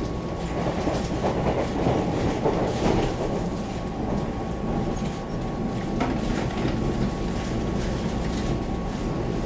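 Taiwan Railway EMU700 electric multiple unit running along the line, heard from inside the passenger car: a steady rumble of wheels on rail with a faint steady high tone. A few rail clicks come about one to three seconds in and again near six seconds.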